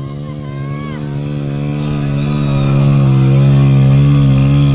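125cc motorcycle racing through deep sand, its engine held at high revs with a slight rise in pitch, growing louder as it approaches and loudest about three to four seconds in.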